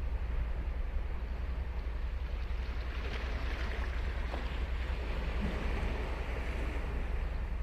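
Ocean surf breaking and washing up the beach, the wash swelling about three seconds in, over a steady low rumble.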